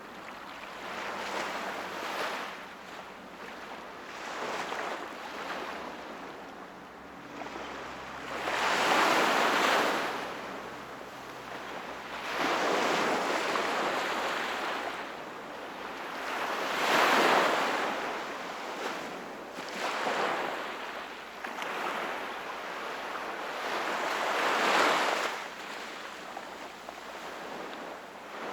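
Small waves breaking and washing on the shore of a calm sea, the surf swelling and falling away several times, with the loudest surges about every four to eight seconds.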